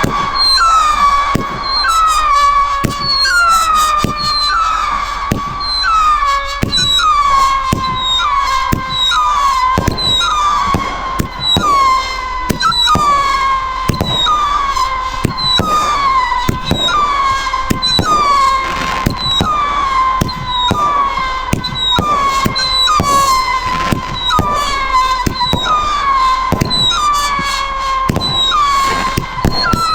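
Firework cake firing a rapid string of whistling shots, about one and a half a second. Each launch is a sharp pop followed by a whistle that drops quickly in pitch and then holds, the whistles overlapping one another.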